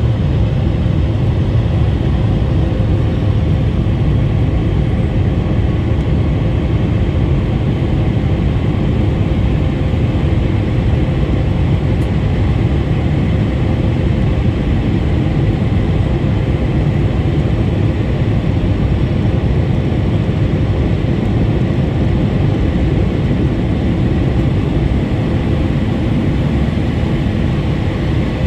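Steady engine and airflow noise heard inside the cabin of a Boeing 737 MAX 8 in flight: its CFM LEAP-1B turbofans running evenly under a low rushing sound, with a faint steady tone.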